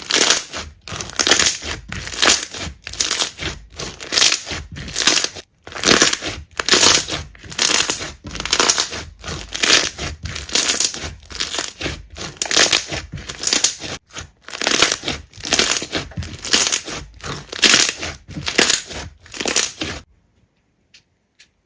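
Hands squeezing and kneading slime: a steady run of squishing, crackling squeezes about one to two a second, which stops abruptly near the end.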